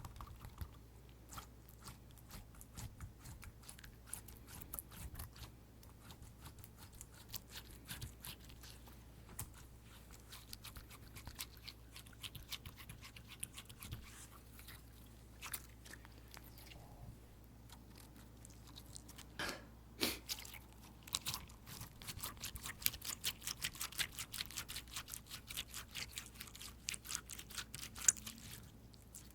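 Fingers tapping and squeezing tapioca slime, giving a dense run of small crackling, squishy clicks that grow busier and louder in the last third.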